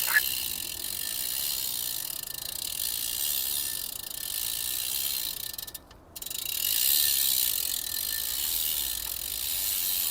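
Bicycle rear freehub ratcheting in a fast, steady buzz of clicks as the cranks are turned backward while the chain is cleaned. It breaks off briefly about six seconds in, then starts again.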